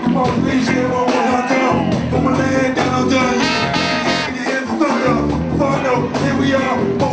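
Live band music from a large Latin percussion band: drums and percussion keeping a dense, steady groove under pitched instruments and voices.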